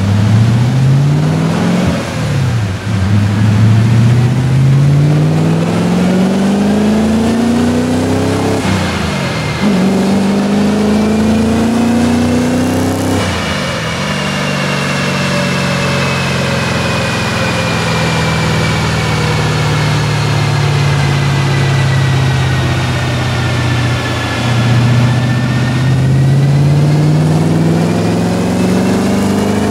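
Audi B6 S4's 4.2-litre V8 through a Techtonics full exhaust (downpipes and cat-back), pulling hard on a dyno. The revs climb with three quick drops as it shifts up, fall slowly as it coasts down, then climb again near the end.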